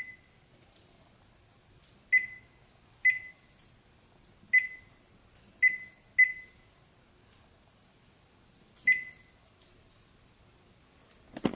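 A series of short, high single-pitched electronic beeps, about seven of them at uneven intervals, each dying away quickly, with a knock near the end.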